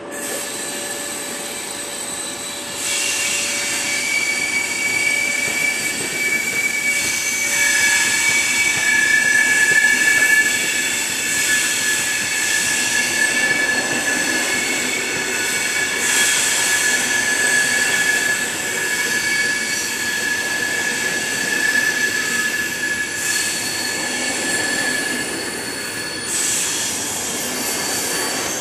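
Wheels of the departing night express train's carriages squealing against the rails, several long high squeals overlapping above a steady rolling rumble. The squeal grows louder about three seconds in and peaks around ten seconds in.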